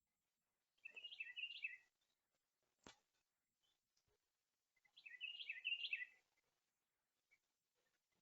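A songbird sings two short, quick warbled phrases about four seconds apart, with a single sharp click between them.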